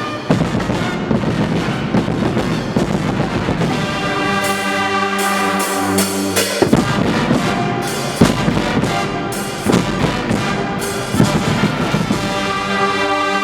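Guggenmusik carnival band playing loudly: massed brass such as trumpets and trombones sounding held chords over drum beats.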